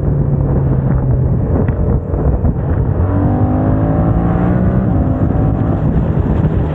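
Yamaha MT-07's 689 cc parallel-twin engine running loud through a MIVV aftermarket exhaust, with a brief drop in sound about two seconds in and then the engine note rising as it accelerates.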